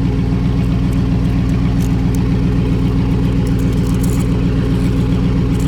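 2006 Ford F-150's 4.6 V8 idling steadily while it warms up, running through an exhaust with no mufflers.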